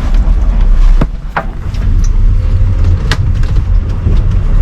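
Steady low rumble of wind and sea noise in a sailboat's open cockpit under way, with a few short clicks.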